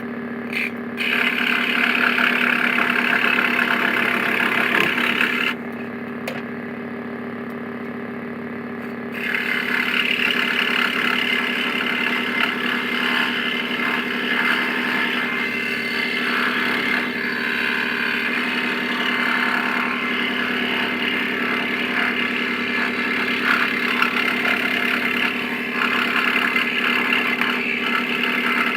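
Aldi Workzone electric scroll saw running steadily, a constant motor and blade hum with a louder, higher-pitched rattling hiss over it. The hiss drops away for a few seconds about five seconds in, then returns.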